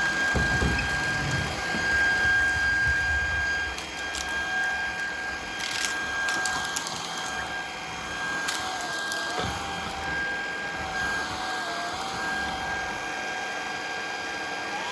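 Shark Vertex cordless stick vacuum running in hardwood mode: a steady motor whine, with scattered clicks and rattles as hard debris is sucked up.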